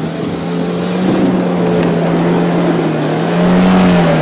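Lada Niva's engine running at high revs while its wheels spin in mud and leaves without getting the car moving. The revs rise near the end, then drop back. The car is stuck.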